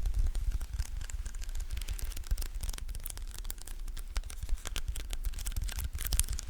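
Close-miked sticky sounds: fingers pressing on and peeling off a tacky surface, a quick irregular run of small crackling clicks over a low handling rumble.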